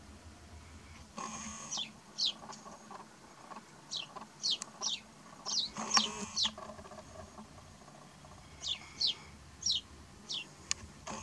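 Small birds calling: about fifteen short, high chirps that each fall in pitch, coming singly and in quick runs at uneven intervals. A brief rustle with a sharp click about halfway through is the loudest moment.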